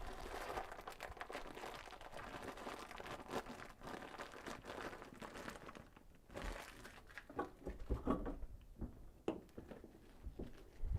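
Plastic parts bag crinkling as it is handled and rummaged through, with scattered small knocks and clicks of parts being handled, sparser in the second half.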